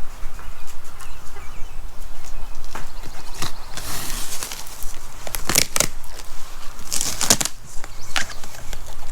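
Chickens clucking, with several short, loud rustling or flapping bursts, the loudest about halfway through and again about three-quarters of the way through.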